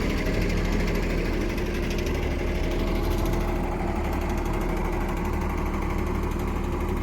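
Diesel engine of an old, long-parked John Deere heavy machine running steadily at an even speed.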